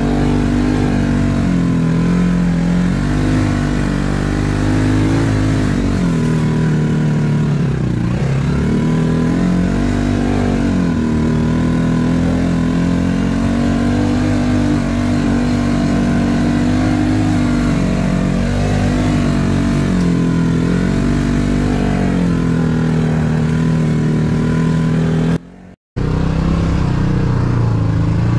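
ATV engine running while riding, its revs rising and falling over and over with the throttle. The sound drops out briefly near the end.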